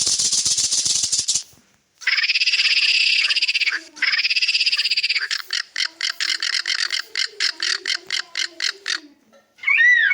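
Buzzing, frog-like croaking: a rasping rattle, then two longer buzzy croaks, then a quick run of short croaks at about four to five a second. A rising-and-falling meow-like call starts near the end.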